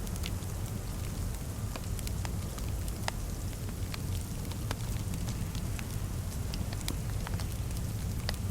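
Fireplace wood fire crackling, with sharp pops coming irregularly several times a second over a steady low rumble.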